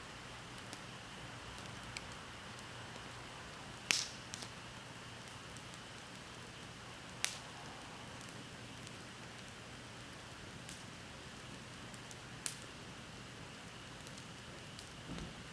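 Wood bonfire burning with a steady faint hiss and a few sharp crackling pops, the loudest about four seconds in.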